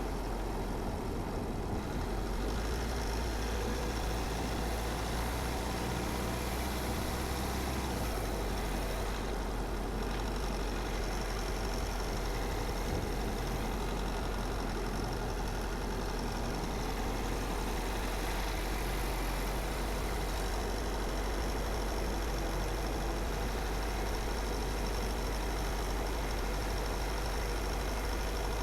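Car driving at a steady pace: a constant low engine drone with tyre and road noise, with no sudden sounds.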